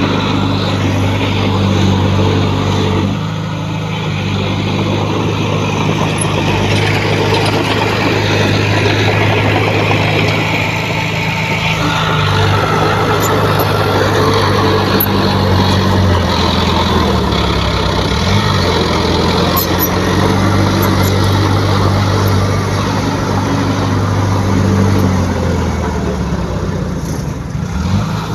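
Heavy diesel engine of construction equipment running steadily, its pitch dipping and then recovering about two-thirds of the way through.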